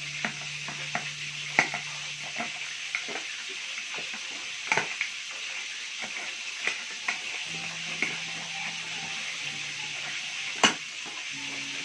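Chicken frying in hot oil: a steady sizzle full of crackling pops, the sharpest pop near the end.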